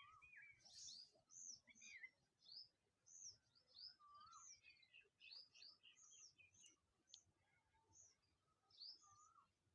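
Faint chorus of several small birds chirping and calling, many short arching notes overlapping one another.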